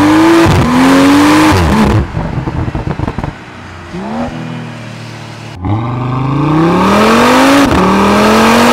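Turbocharged sports-sedan engine pulling hard through the gears twice. Each time the revs climb and drop sharply at quick upshifts. Between the pulls the throttle closes with a rapid crackle from the exhaust, and there is one short blip of revs.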